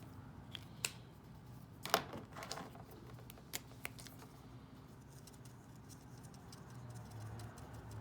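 Felt-tip marker tips tapping dots onto paper: faint, irregular light ticks, with a sharper knock about two seconds in.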